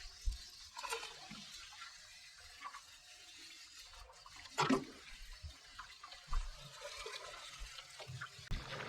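Water splashing and sloshing in short, irregular spurts, with one louder splash about halfway through.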